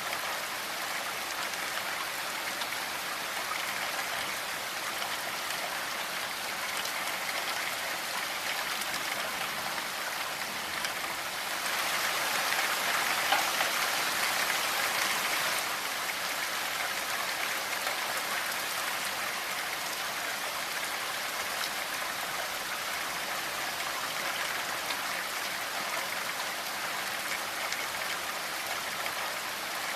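Steady rainfall, an even hiss of many drops, swelling louder for a few seconds midway before settling back.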